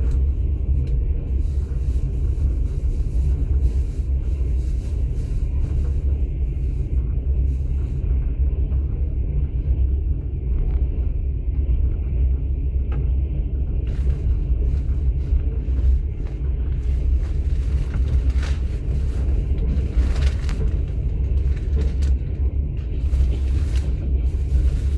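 Moving passenger train heard from inside an open-plan sleeper car: a steady low rumble of the carriage running on the rails, with scattered faint clicks and rattles.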